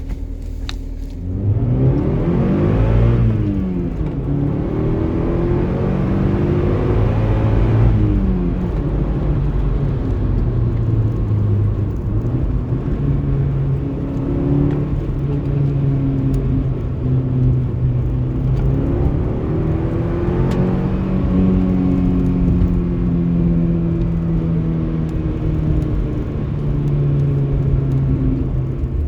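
Exhaust note of a 1995 Mitsubishi Chariot GT's turbocharged 4G63 four-cylinder through a 2.5-inch exhaust and Flowmaster 80 Series muffler. The engine revs up and drops back about two seconds in, then runs on with its pitch drifting up and down, rising again about twenty seconds in.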